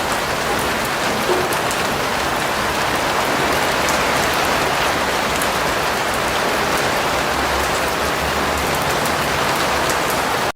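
Steady rain falling, an even hiss with scattered drop ticks, which cuts off suddenly at the very end.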